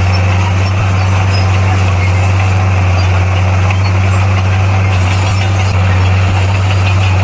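Bulldozer's diesel engine running at a steady speed: a constant low drone that holds one pitch throughout.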